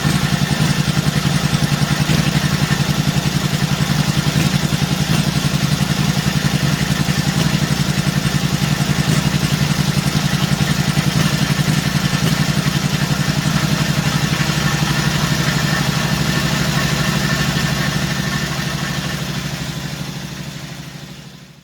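1948 Indian Chief's side-valve V-twin engine running at a steady, even idle after a cold start, then fading out near the end.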